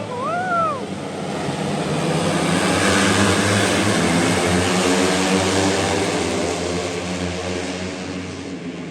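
A pack of racing motorcycles going past on the circuit, several engines running at high revs together; the sound builds over the first few seconds and fades away toward the end as the bikes move off.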